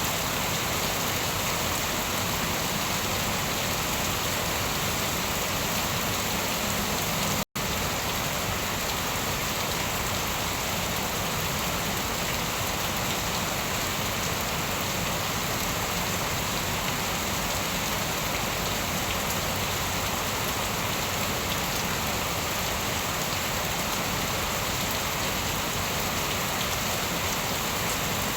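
Steady, even rainfall with drops hitting surfaces. The sound cuts out completely for a split second about seven seconds in, then resumes unchanged.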